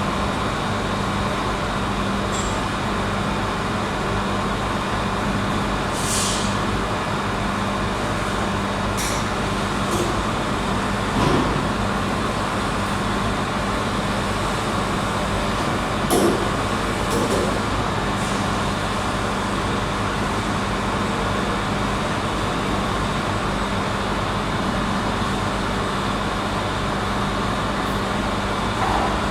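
Steady industrial machinery noise with a constant low hum, broken a few times by short hisses of air.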